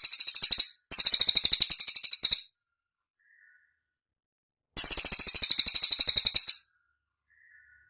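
Cililin songbird singing a rapid, very high-pitched trill of fast repeated notes. It comes in three bursts: one ending just under a second in, one lasting to about two and a half seconds, and one from about five to six and a half seconds. A faint short call comes in each gap.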